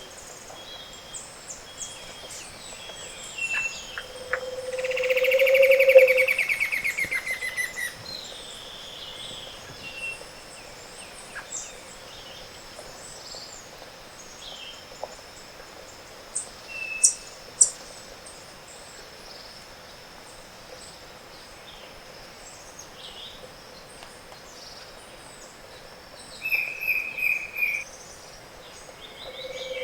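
Tropical Andean forest dawn chorus, with many birds giving scattered calls and trills over a steady high insect tone. A low hooting song swells and breaks off about six seconds in, with a falling trill above it, and another low song begins at the very end. The uploader names the Scaled Antpitta as the dominant singer.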